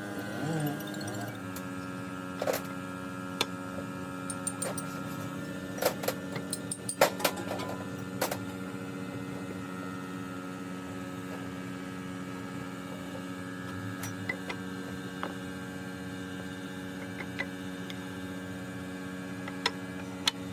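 A steady machine hum, with scattered sharp clinks and knocks of metal tools being handled, bunched in the first half.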